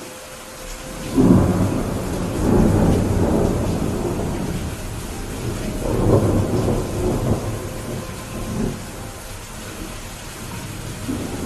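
Steady rain with rolling thunder: one long rumble begins about a second in, and a second rumble swells around six seconds in, each fading out over a few seconds.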